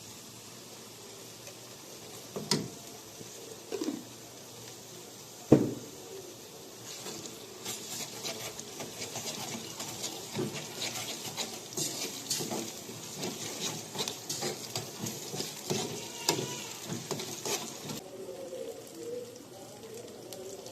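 Kitchen handling sounds: a few sharp knocks, the loudest about five and a half seconds in, then a long stretch of dense clicking and crackling that cuts off suddenly near the end.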